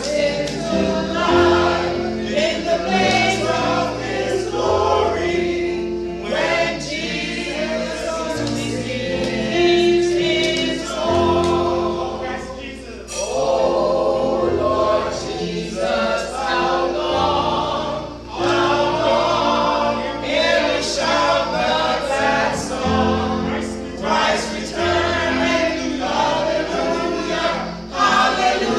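A choir singing a gospel hymn over instrumental accompaniment, with held bass notes changing every second or two.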